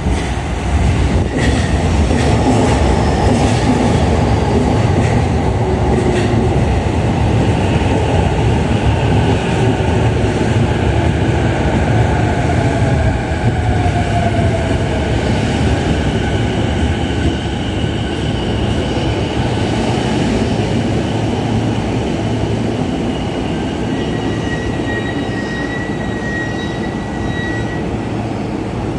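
JR East E233 series 5000 electric train pulling into the station, a steady loud rumble of wheels on rail. Thin high whining tones come and go through the second half as it slows, and the sound eases off gradually.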